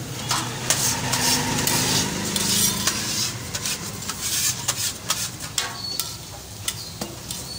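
Lachha parathas sizzling as they fry on a large flat griddle, with scattered sharp clicks and scrapes of a metal spatula and tongs against the griddle. The sizzle is fullest in the first few seconds.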